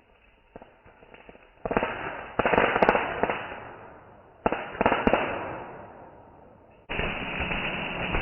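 Fireworks going off: a few faint pops, then a sudden burst about two seconds in with dense crackling that fades away, a second burst in the middle fading the same way, and loud sustained crackling from near the end.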